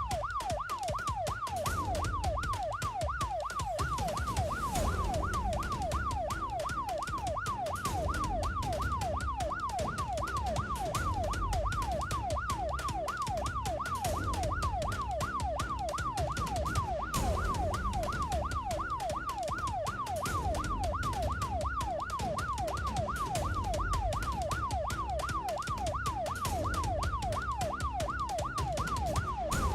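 Police siren on a fast yelp, its pitch rising and falling several times a second without a break, over the low rumble of the pursuing vehicle's engine and road noise.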